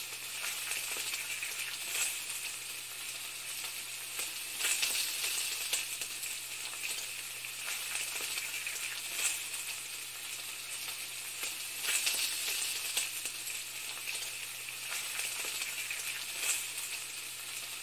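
Steady sizzling hiss, as of food frying in a pan, with scattered brief louder crackles and a faint low hum underneath.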